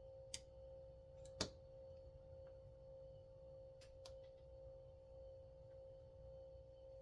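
Near silence with a steady faint hum and a few light clicks, the loudest about a second and a half in and two close together about four seconds in: small parts of a chainsaw recoil starter being handled.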